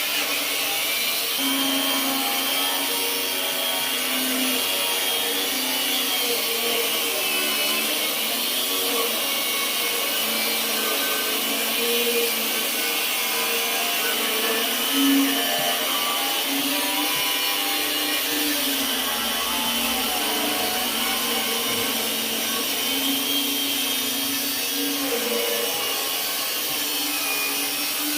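Angle grinder running continuously, its motor whine wavering slightly in pitch over a dense, hissing rasp.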